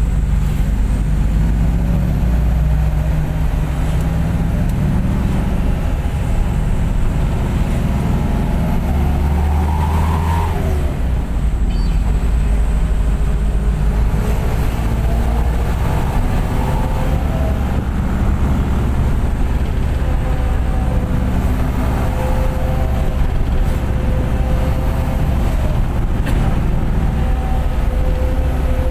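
Bus engine running through a loud 'serigala' aftermarket exhaust while driving, with a continuous low rumble. The engine pitch rises and falls with throttle and gear changes, climbing to a rev peak about ten seconds in.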